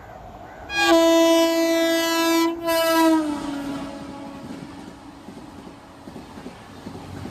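Indian Railways train horn sounded by a passing express: a loud blast starting about a second in, broken briefly, then dropping in pitch as the train passes. The sound then fades into the train running by.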